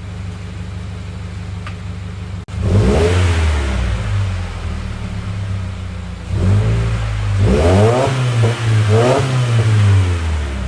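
Subaru WRX's turbocharged 2.0-litre flat-four engine and exhaust running steadily. After a brief dropout about 2.5 s in, it is revved several times, its pitch rising and falling with each rev.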